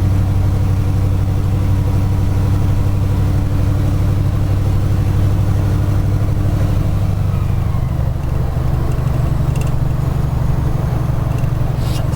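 Scania 143 450's V8 diesel engine running under way, a steady deep note. The engine note shifts about seven seconds in.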